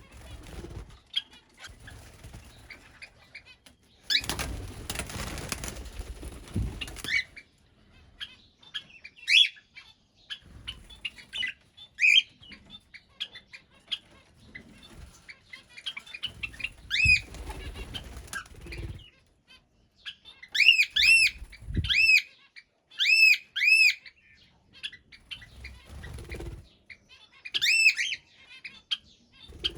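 Aviary birds, a cockatiel among them: bouts of wing flapping and rustling, with scattered chirps. About two-thirds through, a series of loud arching calls, repeated in quick succession, comes twice more near the end.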